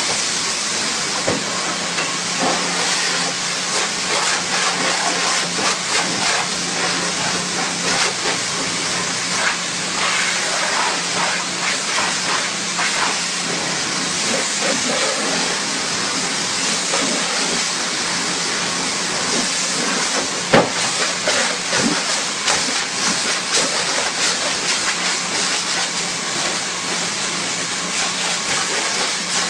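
High-pressure car-wash jet hissing steadily, with a low, even hum from the machine underneath and some irregular crackle as the spray strikes.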